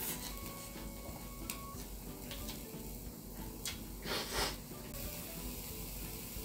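A person chewing, with small mouth clicks scattered through, over soft background music. About four seconds in comes a short breathy rush of air, the loudest sound.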